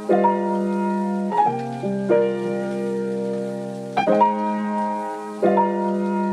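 Sped-up pop song instrumental passage of soft piano chords with no vocals, drums or bass. Each chord is held and changes every one to two seconds.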